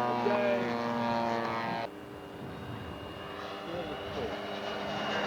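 Radio-control scale model airplane engine running in flight, with an abrupt cut about two seconds in; afterwards the engine is quieter and grows steadily louder as the plane approaches.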